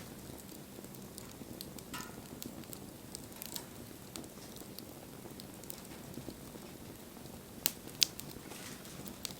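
Wood fire crackling: scattered small pops and snaps over a steady low rush of burning, with two sharper pops near the end.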